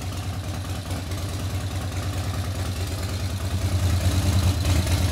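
Motorcycle engine idling with a steady, pulsing low note that slowly gets louder.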